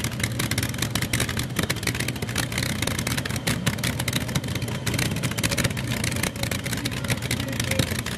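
Light modified pulling tractor's engines running under load on a pull: a steady low drone with dense, rapid crackling from the exhaust.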